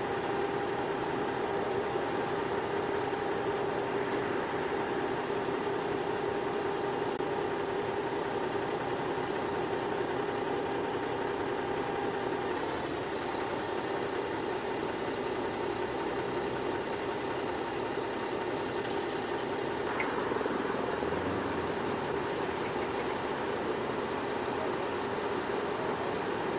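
A vehicle engine idling steadily: an even, unbroken hum.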